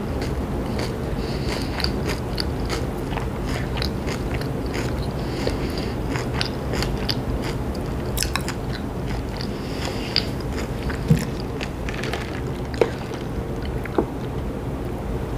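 Close-miked chewing of a sub sandwich, with moist mouth clicks and soft crunches over a steady low background rumble. A few sharper clicks come in the last few seconds.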